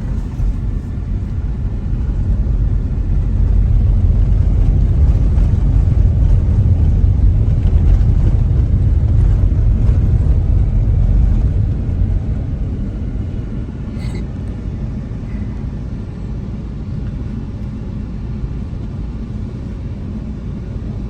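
Low, steady road rumble of a moving car heard from inside, louder for the first half and easing off about twelve seconds in. A brief high beep about fourteen seconds in.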